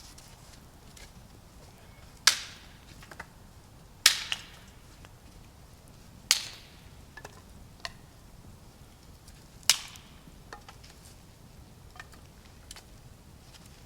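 Wood being chopped: four sharp strikes a couple of seconds apart, with a few fainter knocks in between.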